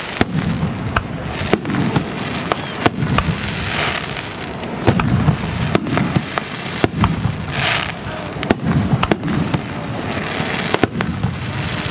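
Fireworks display: aerial shells bursting in an irregular run of sharp bangs, about two a second, over a steady low rumble, with a few longer hissing bursts in between.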